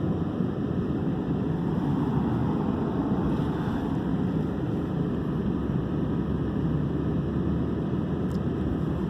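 Steady engine and road noise inside a moving vehicle's cabin, with tyres on a snowy road and the heater fan running high.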